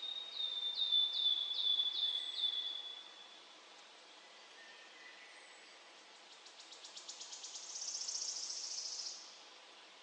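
Forest birdsong: a run of about seven quick, high, downward-slurred whistles, then a few seconds later a fast ticking series that speeds up into a high, buzzy trill, over a faint steady hiss.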